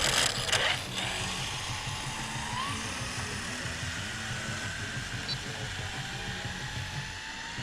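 Arrma Typhon RC buggy launching on a speed run: a loud burst of noise in the first second, then the electric motor's whine rising in pitch as the car speeds away, over background music.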